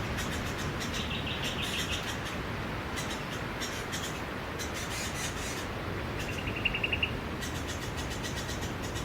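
Steady wash of sea waves with a bird trilling twice, a fast pulsed trill about a second in and a shorter, louder one about six seconds in.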